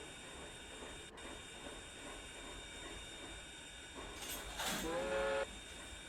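Short blast of a steam locomotive whistle about four seconds in: a rush of steam that rises into a steady pitched tone, cut off suddenly after about a second.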